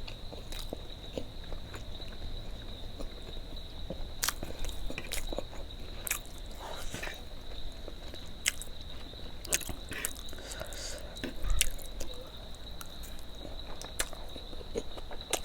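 Close-up eating sounds of a person chewing a paneer momo: irregular bites, wet smacks and mouth clicks.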